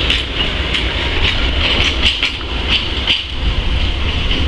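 Narrow-gauge steam train, hauled by a Hunslet quarry saddle-tank locomotive, running along the track: a steady rumble and hiss with regular sharp clicks about twice a second.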